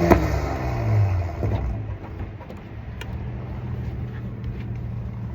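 Car engine easing off after revving, its pitch falling over the first second, then running steadily at a low hum.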